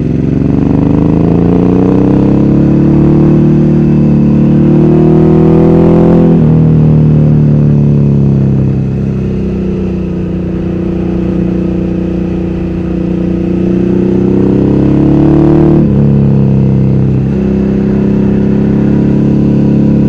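Ducati Hypermotard 1100S's air-cooled L-twin engine, heard from the saddle while riding under load. The revs climb steadily and drop sharply at an upshift about six seconds in. They climb again and drop sharply at a second upshift near the end.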